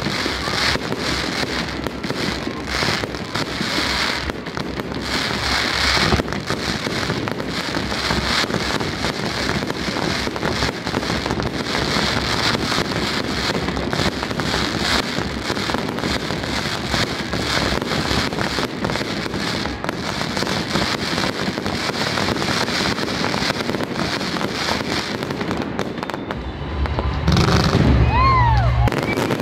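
Fireworks display: a dense, continuous barrage of shells bursting with crackling and popping bangs. Near the end a louder, deeper rumble comes in, with a brief pitched glide.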